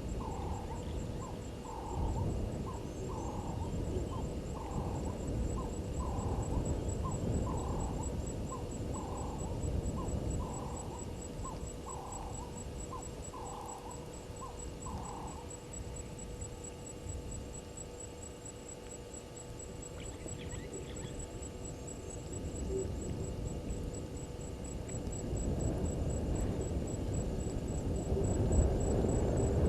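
A bird calling in an even series of short calls, a little more than one a second, that stops about halfway through. Under it a high, rapid pulsing trill runs throughout, and a low rumbling noise swells near the end.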